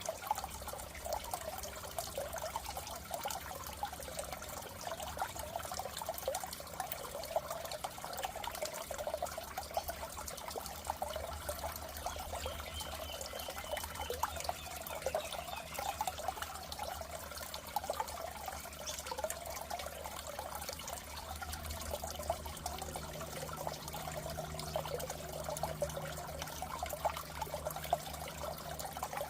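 Water trickling steadily in a goldfish tank, as from an aquarium filter's outflow, with a low steady hum underneath.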